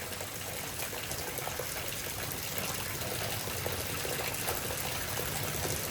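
Torrential rain pouring steadily, a constant hiss of downpour with water splashing and running off.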